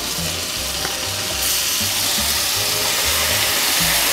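Sour kimchi sizzling as it is scraped into a frying pan of hot melted butter and stirred, the sizzle swelling louder about a second and a half in.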